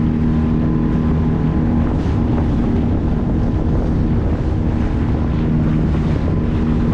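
9.8 HP outboard motor running steadily at a constant pitch as the boat is under way, with wind buffeting the microphone.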